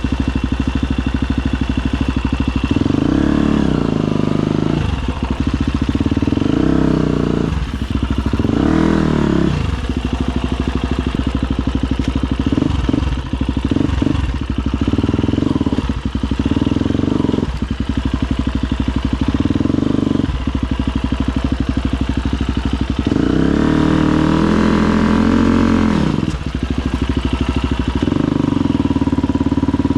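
Husqvarna FE250 single-cylinder four-stroke enduro engine running under constant throttle work, the revs rising and falling in repeated swells, with bigger rev pickups a few times and brief drops off the throttle.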